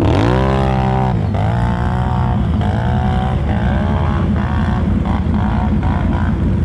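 ATV engine revving in a series of throttle bursts: a long rise in pitch at the start, two more over the next couple of seconds, then shorter quicker blips. A steady engine drone runs underneath.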